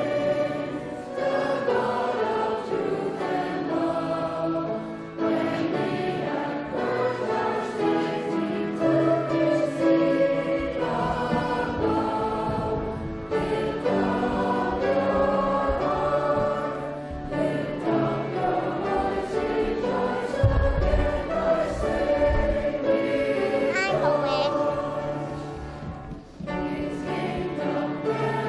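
A choir singing a hymn with held, sustained notes.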